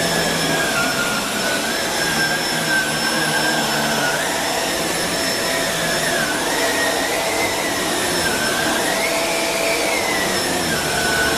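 Shark Rotator Speed Lift-Away upright vacuum cleaner running, its brushless suction motor making a steady whine over a loud rush of air. The whine wavers up and down in pitch.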